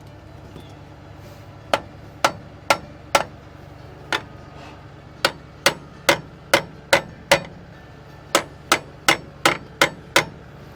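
Hand hammer striking hard and repeatedly, about two blows a second, in three runs of five or six blows with short pauses between them.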